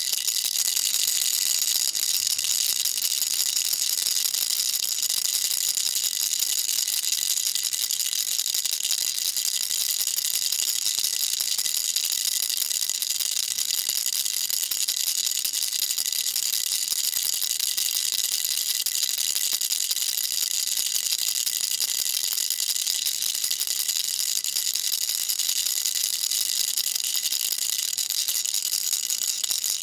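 Baby rattle shaken continuously, a dense, steady high-pitched rattling of small beads inside a toy rattle.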